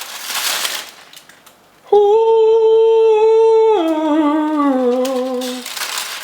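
A brief hissing rustle, then a person hums a loud, long note that holds, steps down in pitch and slides lower with a wavering quiver before stopping.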